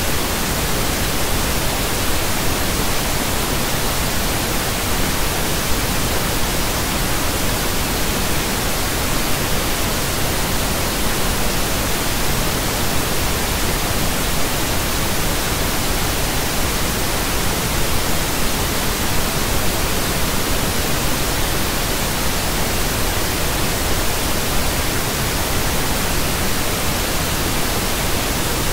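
Steady pink noise: an even hiss spread across the whole range, unchanging throughout.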